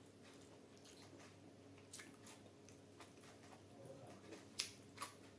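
Soft, wet eating sounds from chewing a mouthful of rice and curry, with scattered faint clicks and two sharper clicks near the end.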